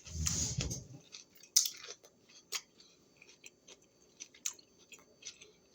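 A person chewing a raw vegetable snack: a louder stretch of chewing in the first second, then soft, scattered wet clicks and crunches.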